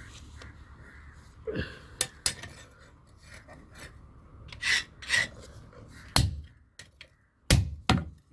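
Metal tools and a steel knife blade being handled on a workbench: several sharp clinks and knocks, the loudest after about six seconds, with two short rasping scrapes just before them.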